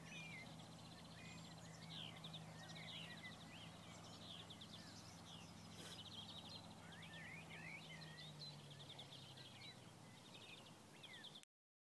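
Faint songbirds calling and singing, with many quick trills and short rising and falling whistles, over a faint steady low hum; the sound cuts off suddenly near the end.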